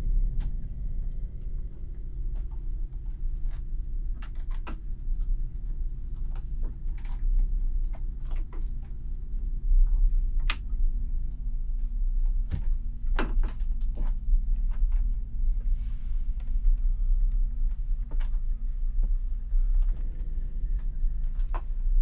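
A low, steady rumbling drone under scattered creaks, clicks and knocks of wood and stored things being handled in a boarded attic; the sharpest knock comes about halfway through.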